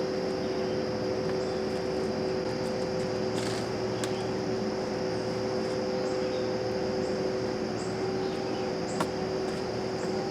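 Vacuum cleaner motor running steadily with a droning hum and hiss, cleaning out the truck, with a few light clicks and knocks; the higher of its two hum tones fades out about eight seconds in.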